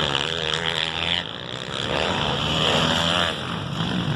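450cc motocross bikes running on the track, engine pitch rising and falling as the riders work the throttle.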